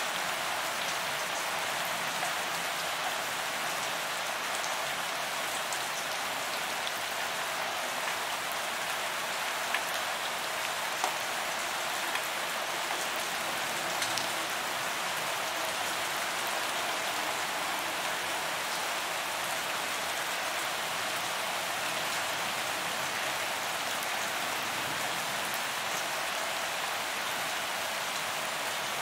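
Steady rain falling, an even hiss with little low rumble and no thunder. A few sharper drop taps stand out about ten, eleven and fourteen seconds in.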